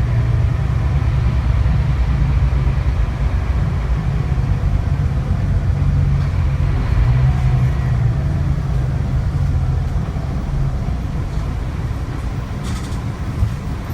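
Scania K360IB bus's diesel engine running steadily as a low drone, its pitch drifting slightly up and down. It eases off a little in the last few seconds, with a few faint ticks near the end.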